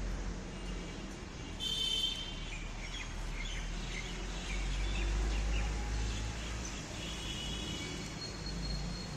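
Outdoor ambience of a low steady rumble with small birds chirping: a quick burst of chirps about two seconds in, scattered calls after it, and more chirping near the end.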